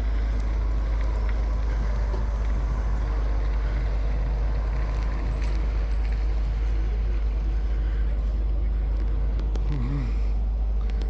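Fire engine's diesel engine running with a steady low rumble as the truck pulls up, a thin steady whine joining about three seconds in.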